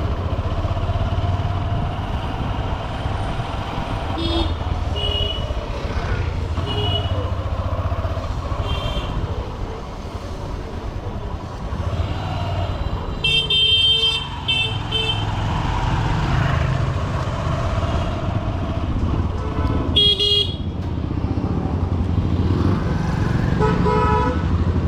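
Honda SP125 commuter motorcycle's single-cylinder engine running under a steady rumble of traffic and wind, while vehicle horns toot again and again. There are a few short toots early on, a louder burst of honking about halfway through, another loud honk around twenty seconds in, and more honking near the end.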